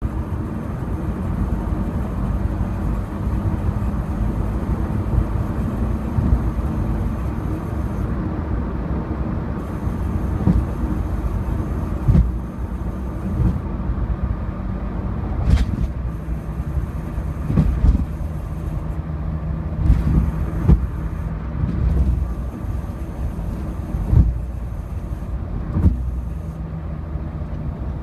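Road and tyre rumble inside a Honda CR-Z's cabin while driving, with a thump every second or two from about twelve seconds in as the car runs over bumps.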